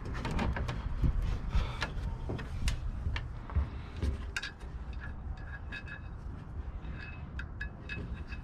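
Scattered knocks and clicks from handling the homemade truck tailgate and its tie-down rope, over a low rumble, with a few faint short high chirps in the second half.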